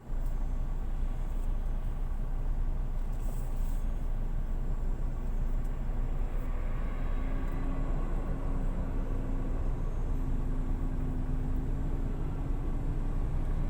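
Motor vehicle running, a steady low rumble, with a faint steady engine hum coming in about halfway through.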